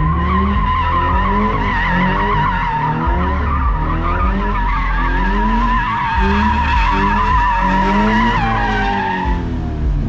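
A car's tyres squeal in one long, wavering screech while its engine revs up and down underneath. Near the end the screech drops in pitch and fades out.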